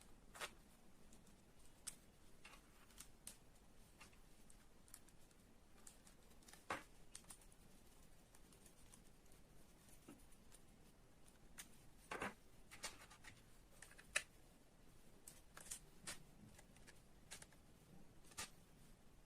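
Sparse light clicks and taps of small parts being handled, a dozen or so at irregular times over quiet room tone.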